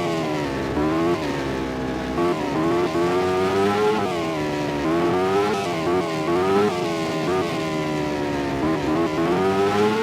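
MotoGP race motorcycle engine at high revs, its pitch dropping sharply and climbing back again and again as the rider shifts gears, brakes and accelerates.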